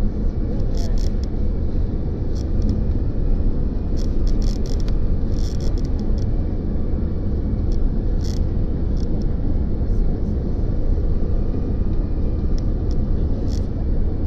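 Steady low rumble inside a jet airliner's cabin, with short faint clicks scattered through it.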